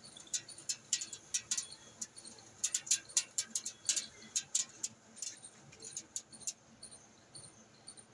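Lovebirds chirping: many short, sharp chirps in quick runs, thinning out after about six seconds.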